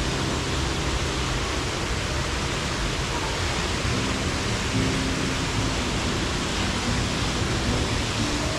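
Steady, dense rushing of a waterfall, with background music faintly underneath. The rush cuts off abruptly at the end.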